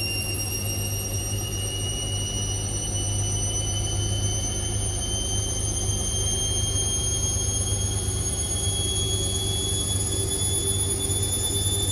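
Indesit IWC6165 washing machine's motor whining during a spin. The high-pitched whine rises slowly and steadily in pitch as the drum gathers speed, over a steady low hum.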